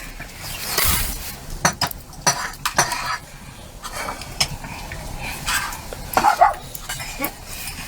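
Scattered clinks and knocks of pots, dishes and utensils, with a dog barking briefly about six seconds in.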